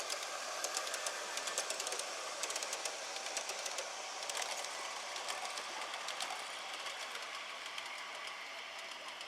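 Gauge 1 model train running on outdoor track, its wheels making quick irregular clicks over the rail joints, growing a little quieter and sparser towards the end.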